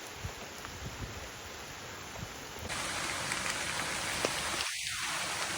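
Steady rain falling, with individual drops pattering. About two and a half seconds in, the rain becomes louder and denser.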